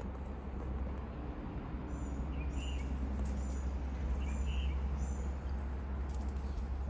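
Outdoor ambience: a steady low rumble, with a small bird chirping in short repeated notes, about one and a half a second, through the middle.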